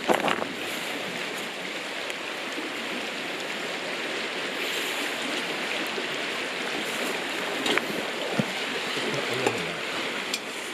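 River water flowing steadily, with a few faint clicks and knocks near the end.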